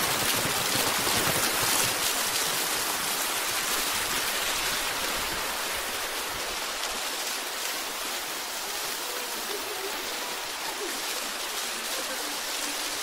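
Waterfall rushing: a steady, dense hiss of falling water, a little louder in the first two seconds.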